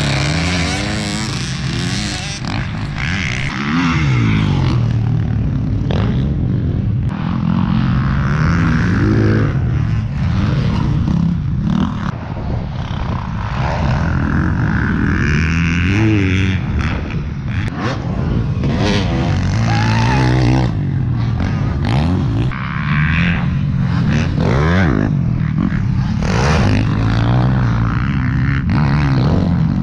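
Motocross dirt bike engine being ridden hard, its pitch repeatedly climbing as it revs and then falling away.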